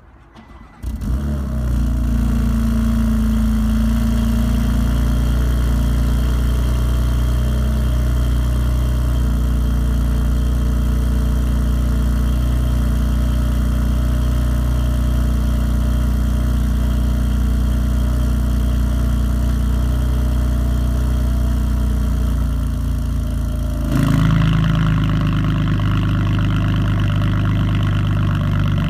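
A BMW M3 F80's S55 twin-turbo straight-six starts from cold through a Capristo aftermarket exhaust. It catches about a second in and settles into a steady cold idle with the exhaust valve flap closed. Near the end the flap opens and the idle turns suddenly louder and brighter.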